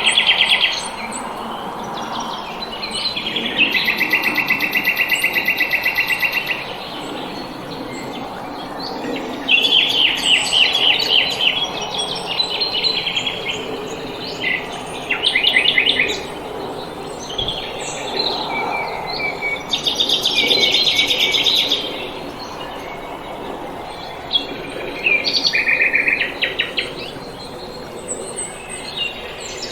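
Small songbirds singing in spring: bouts of fast trills of repeated high notes, one to three seconds each, coming every few seconds over a soft background hum.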